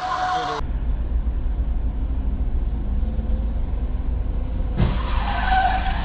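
A car running, heard from inside as a steady low engine and road rumble. A short thump comes about five seconds in, followed by a brief higher-pitched tone.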